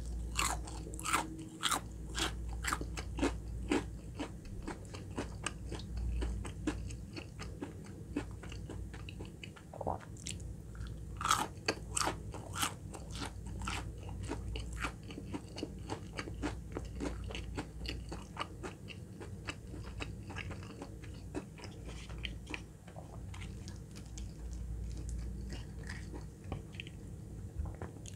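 Close-miked biting and chewing of crispy battered fried chicken nuggets. The coating gives many sharp crunches, thickest near the start and again about eleven seconds in, with softer chewing between.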